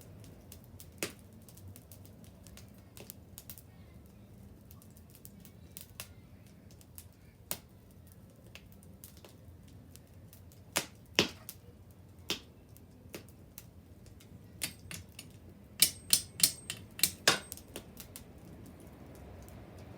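Wood bonfire crackling: scattered sharp pops and snaps over a low steady background, with a quick flurry of louder pops near the end.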